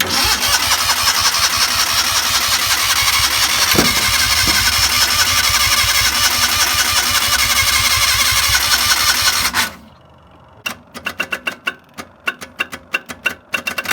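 Starter cranking the Joyner Sand Spider's 650cc four-stroke engine for about ten seconds, then cutting off suddenly; after a short pause comes a rapid, irregular string of sharp pops. The popping is the engine backfiring with its ignition timing still off after the distributor was reset.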